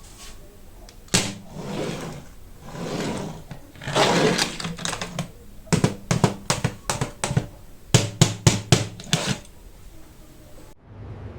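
Hot Wheels die-cast car packaging being handled and opened by hand: rustling and scraping of card and plastic, then two runs of quick, sharp clicks and taps.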